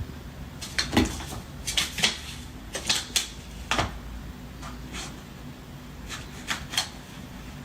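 A series of irregular light knocks and clicks on hard surfaces, about a dozen over several seconds.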